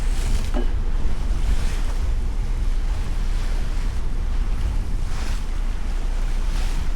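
Wind buffeting the microphone over waves washing against a boat, with several short splashing hisses of water and a brief squeak about half a second in.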